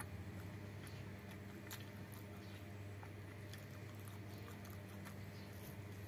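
A person chewing and biting food, eaten by hand, with scattered soft clicks from the mouth. A faint steady low hum lies underneath.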